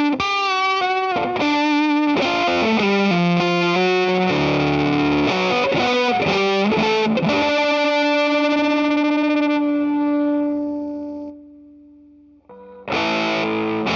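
Electric guitar played through an Earthquaker Devices Sound Shank germanium fuzz pedal: a run of fuzzy lead notes with bends, then a sustained note that fades out. A loud new fuzzed chord strikes near the end.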